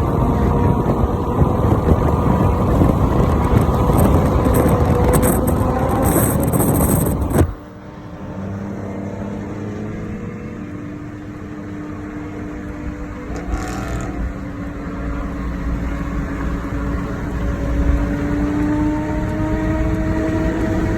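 Motorcycle engine running at road speed under heavy wind and road noise, which cuts off suddenly about seven seconds in; the engine note is then heard more clearly, slowly rising in pitch as it accelerates.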